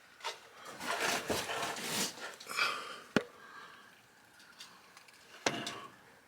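Rustling, scraping handling noise for about three seconds, then two sharp clicks, one about three seconds in and one near the end.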